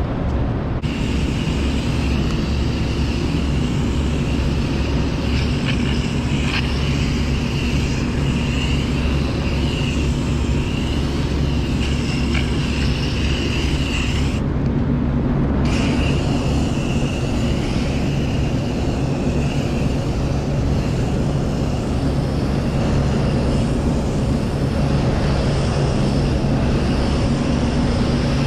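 Air-conditioner condensing unit running with a steady motor hum, while a hose sprays water to wash down its coil. The spray hiss breaks off for about a second midway, then resumes.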